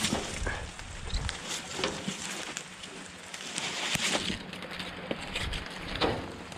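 Rustling with scattered knocks and clinks as scrap and wire are rummaged through in a dumpster, over a steady hiss, with a louder rustling stretch near the middle.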